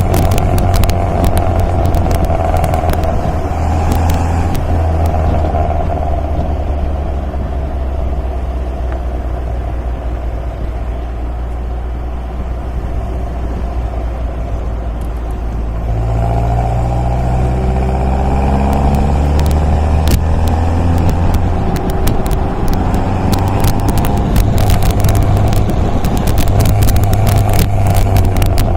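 MGA roadster's four-cylinder engine running on the road, easing off steadily, then pulling through the gears with the revs rising from about halfway. Scattered clicks over the top.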